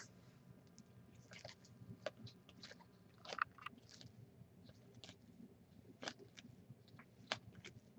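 Trading cards being handled and flipped through: faint irregular clicks and short rustles of card stock sliding against card stock.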